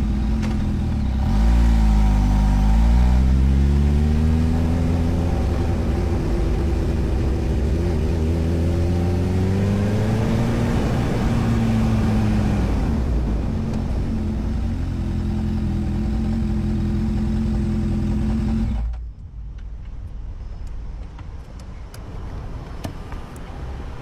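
Motorcycle engine running: its pitch dips about two seconds in, then rises steadily for several seconds as it speeds up, then holds steady before the sound cuts off suddenly near the end, leaving quieter background noise with a few faint ticks.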